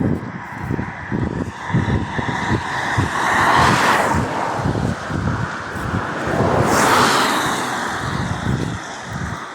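Two vehicles passing one after the other, each swelling and fading, the second about three seconds after the first, over irregular low thumps.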